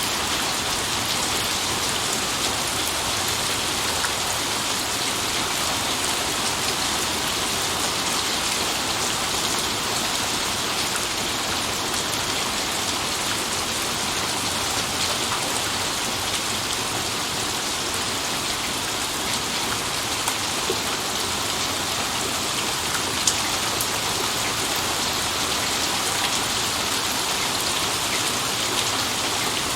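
Steady heavy rain falling and pattering on surfaces, with scattered sharp drop hits and no thunder.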